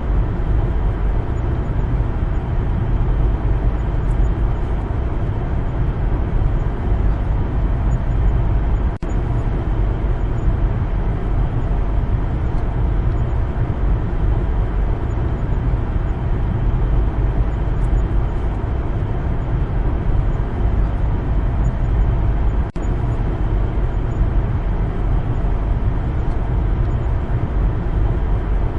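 Steady road and engine rumble of a car driving, with two brief dropouts, about nine seconds in and about two-thirds of the way through.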